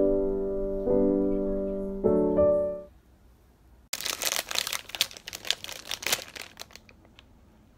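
A gentle electric piano melody of sustained chords fades out about three seconds in. After a short pause, a burst of rapid crackling and rustling clicks lasts about three seconds and then trails off.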